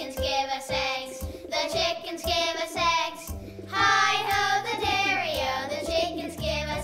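Children's music: high voices singing with vibrato over instrumental backing and a stepping bass line.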